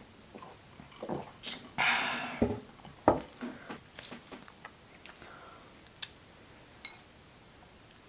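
Close-miked eating sounds: wet chewing and biting, with a short hissy rustle about two seconds in and a sharp knock, the loudest sound, about three seconds in, then scattered soft clicks.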